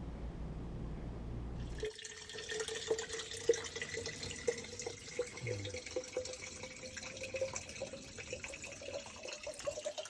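A low rumble for about the first two seconds, then water running and trickling with many small drips and splashes.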